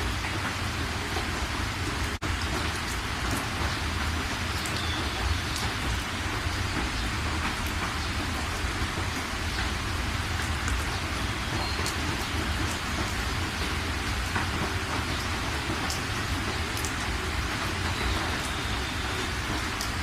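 Steady rain falling, a dense even hiss with scattered sharper drop ticks, broken by a split-second dropout about two seconds in.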